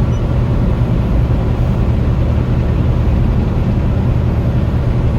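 Steady low drone of a semi truck's diesel engine.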